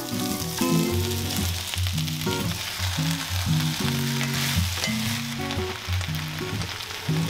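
Chopped onions, then tomatoes and green beans, sizzling in hot oil in an enameled cast-iron Le Creuset sautese and stirred with a wooden spoon. Background music plays underneath.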